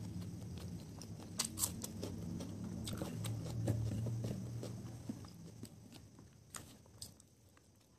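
Close-miked chewing of a mouthful of fried rice and chicken, with a few sharp clicks; it fades from about five seconds in.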